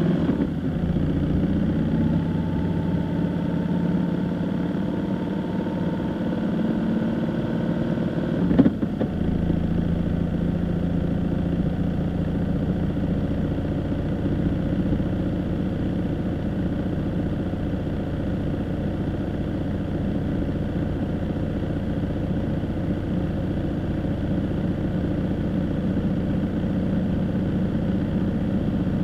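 A vehicle engine running on the move, its pitch shifting in the first couple of seconds and then holding steady. A single sharp knock comes about eight and a half seconds in.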